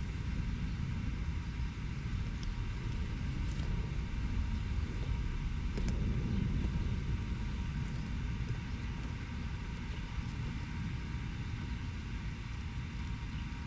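Steady low rumble of road traffic in a city, with no single vehicle standing out.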